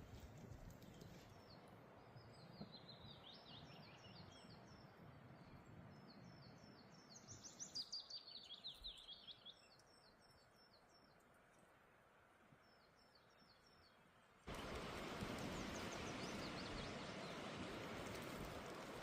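Faint small birds chirping in quick repeated trilled phrases, loudest around the middle, then a few seconds of near silence. About fourteen seconds in, a steady hiss of noise starts abruptly.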